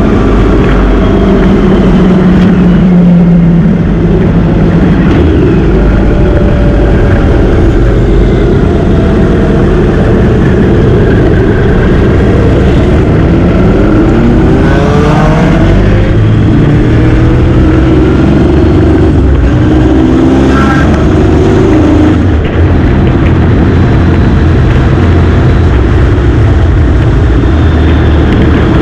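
Motorcycle on the road at speed: loud wind noise on the microphone over the engine, whose note rises a few times in the middle as the bike accelerates.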